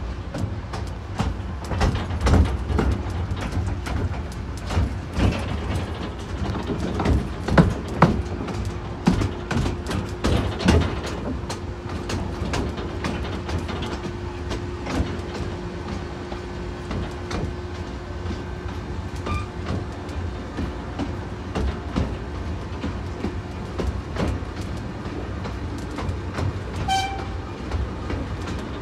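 North Bay Railway miniature train running along the track, with a steady rumble and many irregular clicks and knocks from the wheels over rail joints. A steady hum runs through the middle of the run, and a short high tone sounds near the end.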